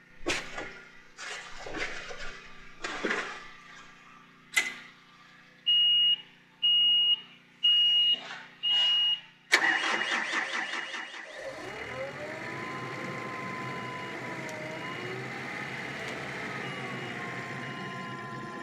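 A few knocks and rattles, then four short high beeps about a second apart, like a skid steer's start-up warning. About halfway through, the skid steer's engine cranks, catches and settles into steady running, with a faint beep still repeating.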